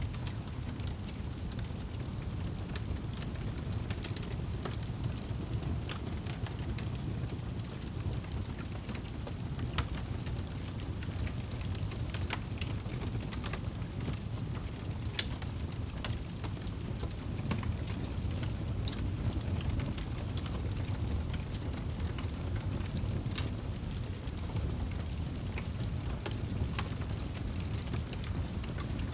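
Crackling fire with rain: a steady low rumbling wash of rain under scattered, irregular sharp pops and crackles of burning wood.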